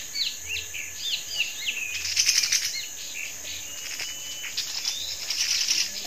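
Small forest babblers (tepus) calling with many quick, high chirps and short up-and-down notes, a rapid run of ticking notes about two seconds in, over a steady high insect drone.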